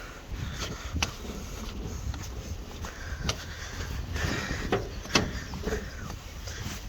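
Outdoor rumble on the microphone, with a few sharp knocks: one about a second in, another just past three seconds and the loudest about five seconds in.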